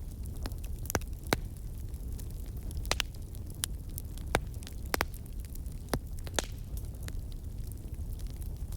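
Wood campfire crackling: irregular sharp pops and snaps of burning logs over a steady low rumble of the flames, the loudest pop about a second in.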